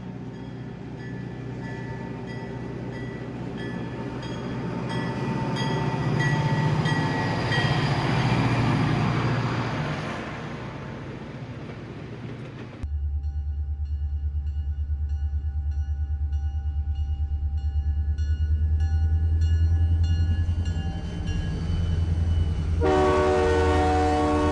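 Diesel freight train sound: a rumble with regular light clicking that grows louder, cutting off abruptly just over halfway into a steady low engine rumble, with a horn sounding near the end.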